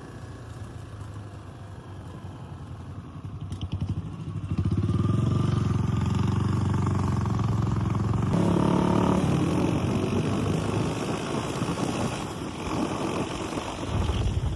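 Motorbike engine running on the move, getting louder about four and a half seconds in, its pitch stepping up about eight seconds in.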